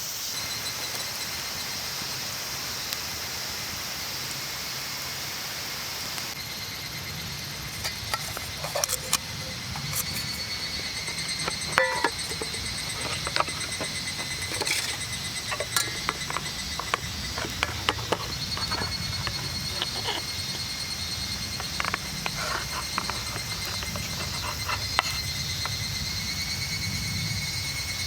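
Insects calling in a steady pulsing trill. From about eight seconds in, scattered clicks and knocks of things being handled.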